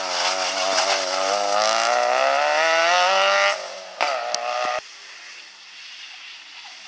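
Peugeot 106 rally car engine revving hard as the car accelerates away, its pitch climbing steadily. It cuts off abruptly about three and a half seconds in, then a short burst of engine noise follows and drops away suddenly.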